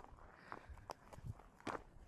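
Footsteps of a person walking outdoors, a crunching step about every half second.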